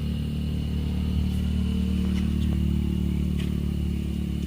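A steady, low engine-like drone with a few faint clicks.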